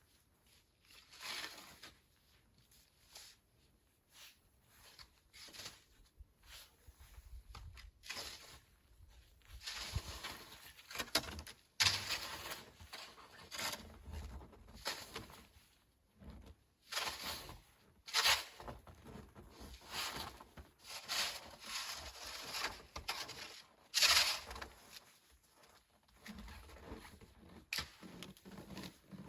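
Footsteps crunching through deep snow, an irregular run of short scuffing crunches about one a second.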